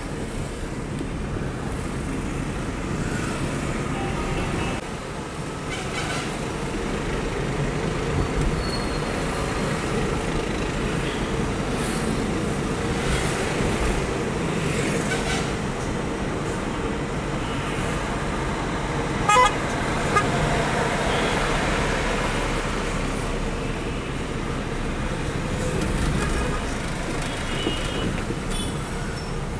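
Truck on the move: steady engine and road noise, with two short horn toots about a second apart a little past the middle.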